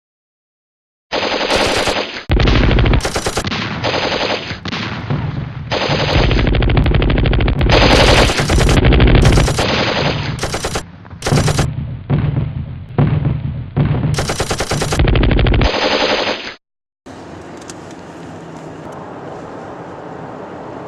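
Bursts of rapid machine-gun fire, one after another for about fifteen seconds, then cutting off suddenly to a low, steady background noise.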